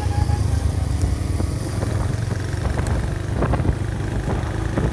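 Honda Magna 50's small single-cylinder four-stroke engine running steadily as the bike rides along, a low even drone.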